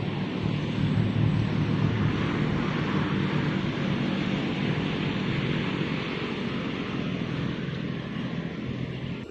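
Wind buffeting the microphone: a steady rumbling hiss that cuts off suddenly at the end.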